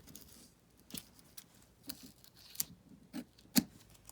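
Irregular sharp clicks and taps, with a little rustle, from paper and small craft tools being handled on a work table. The loudest click comes about three and a half seconds in.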